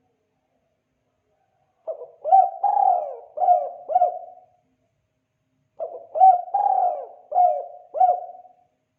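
Spotted dove (tekukur) giving its 'kuk 2' call: two phrases about four seconds apart, each a few soft lead-in notes, a longer coo and two short closing coos.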